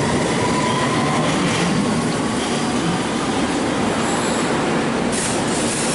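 London Underground District Line train running along the platform: a steady rumble of wheels on rail, with a high hiss or squeal coming in about five seconds in.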